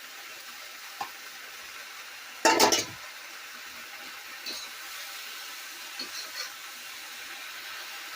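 Bok choy stir-frying in a wok with a steady sizzle, and a loud clatter of the metal spatula against the wok about two and a half seconds in, followed by a few lighter clinks.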